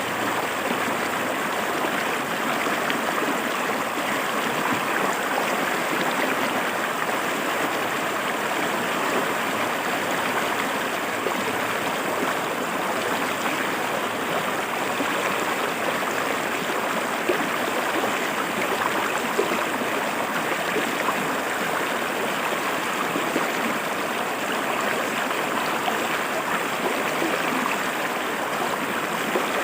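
River water flowing and splashing over rocks, a steady rushing babble with small gurgles.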